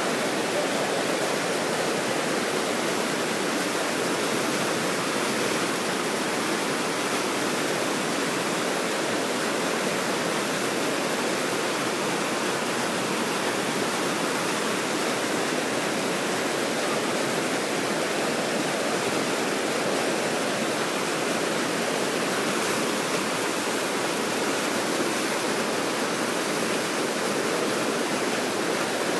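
Water pouring over a river weir, a steady, unbroken rushing.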